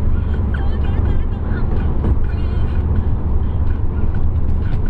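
Steady low rumble of a car being driven, engine and road noise without a break or change.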